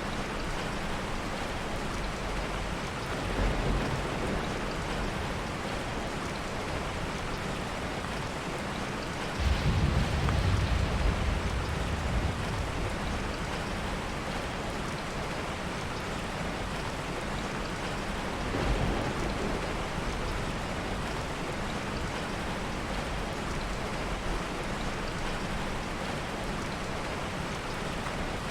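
Steady heavy rain with soft rolls of thunder: a sudden, louder low rumble about a third of the way in that lasts around three seconds, and two fainter rumbles, one a few seconds in and one past the middle.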